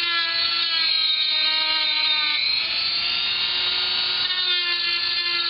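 Dremel rotary tool running at high speed with a steady whine, cutting into the plastic bottom case of a laptop. Its pitch dips and recovers slightly a few times as the bit bears into the plastic.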